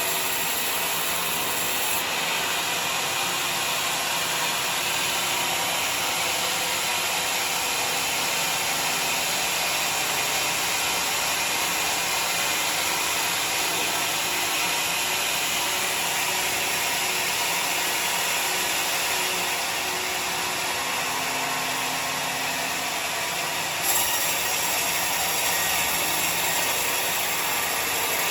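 Sawmill saw and machinery running and cutting timber: a steady, dense mechanical noise that shifts abruptly a couple of seconds in and again near the end.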